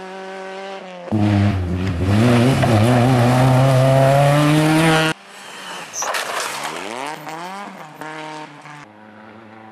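Rally car engine running hard on a gravel stage, in several clips that cut abruptly from one to the next. The loudest stretch, from about one to five seconds in, is a steady climb in pitch under full throttle. It is followed by quick rises and falls in revs through gear changes as the car passes.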